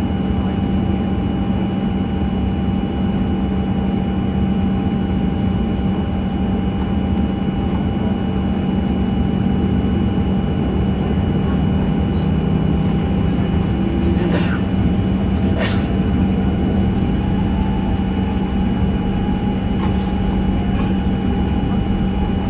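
Steady cabin drone inside a Boeing 737-900, a loud low hum with thin steady whining tones from the airliner's running systems. There are two short clicks a little past halfway.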